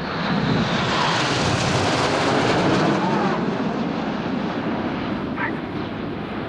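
Jet noise from BAE Hawk T1 jet trainers, whose Adour turbofan engines are heard passing overhead. The roar builds to a peak about two to three seconds in and then slowly fades.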